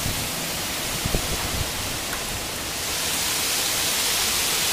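Strong storm wind rushing as a steady hiss, growing a little louder about three seconds in, with a few faint knocks about a second in.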